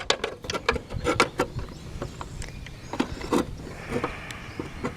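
Scattered light knocks and clicks of a metal bracket being handled and held against the tractor to check that its holes line up, busiest in the first second or so and again about three seconds in.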